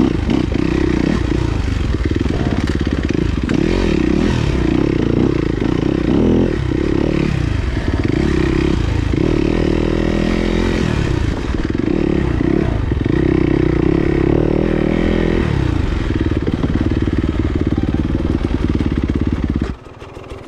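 Enduro motorcycle engine revving up and down repeatedly as the bike is ridden off-road, the revs rising and falling every second or two. The engine sound drops away suddenly near the end.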